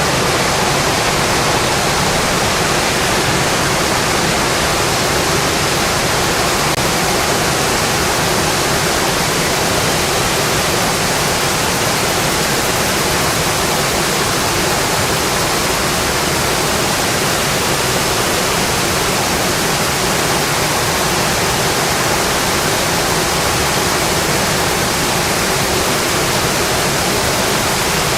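Heavy rain drumming on a metal roof: a dense, steady hiss that does not change.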